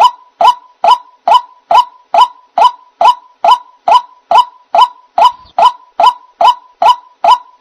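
White-breasted waterhen (ruak-ruak) call used as a bird-trapping lure: a loud, short nasal note repeated with machine-like regularity, about two and a half a second.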